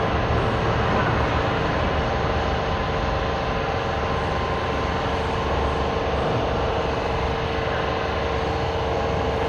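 Steady machine drone: a constant hum with an even noisy hiss over it, holding at one level without change.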